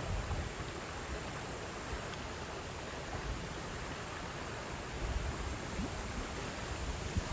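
Water of a stream flowing over stones: a steady, even rush.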